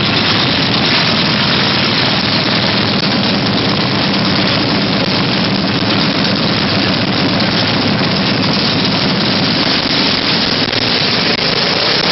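Small mini bike engines running steadily, a loud even drone with no clear revving.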